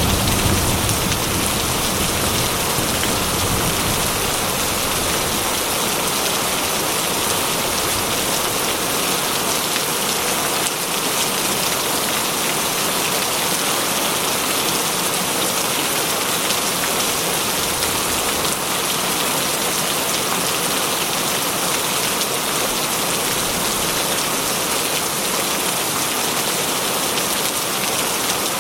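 Heavy rain falling steadily on a tin roof. A thunder rumble dies away in the first few seconds.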